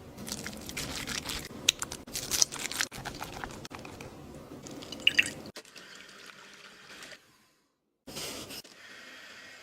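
Wet squishing and crackling of soft food being handled, with sharp crisp clicks over the first five and a half seconds. It then drops to a faint hiss, stops briefly, and a short burst comes near the end.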